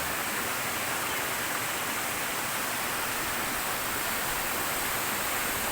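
Steady rush of fast-flowing water from a river or waterfall, even and unbroken.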